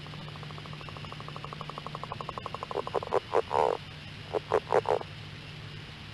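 A frog calling: a fast trill of about fifteen pulses a second that grows louder over nearly three seconds, then breaks into a few louder, separate croaks. A faint steady low hum runs underneath.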